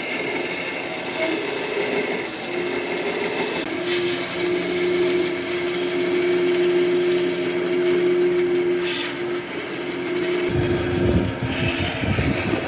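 Electric power tool running on wood with a steady motor hum. About ten seconds in, the sound changes to a lower, uneven rumbling.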